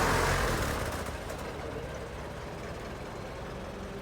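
Ford Model T's four-cylinder engine running; louder for about the first second, then settling to a steadier, quieter run.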